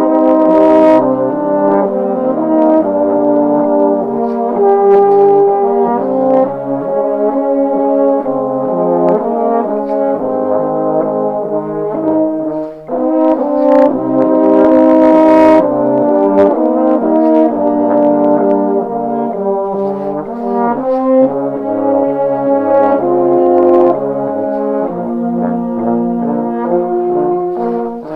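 Baritone horn quintet playing slow, sustained chords in several parts, with a brief break about thirteen seconds in.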